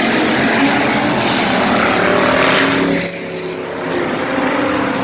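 A field of race cars running flat out together just after the green flag, a dense wall of many engines. The sound dips briefly about three seconds in, then builds again.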